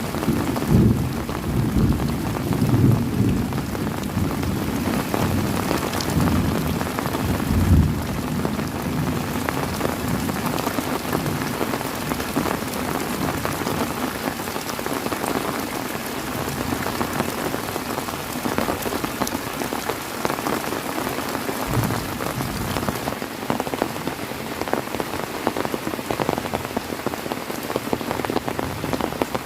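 Heavy rain falling steadily, with low thunder rumbling through roughly the first eight seconds and a brief low rumble again about two-thirds of the way in.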